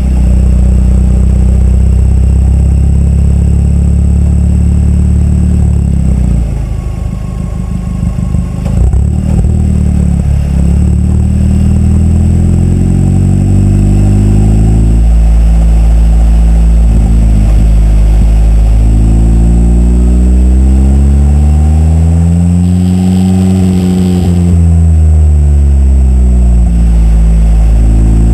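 KTM X-Bow GT's Audi-sourced turbocharged 2.0-litre four-cylinder engine driven hard: it runs steadily at first, then the revs climb and drop sharply at a gear change about halfway. The revs climb again, fall back off, and start rising once more near the end.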